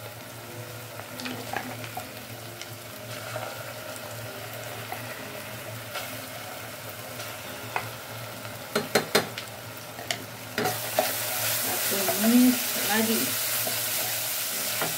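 Onions and garlic sizzling in margarine and oil in a stainless steel pot while ground spice paste is stirred in with a wooden spatula. A quick run of sharp knocks comes about nine seconds in, and the sizzling gets louder and hissier a little after ten seconds.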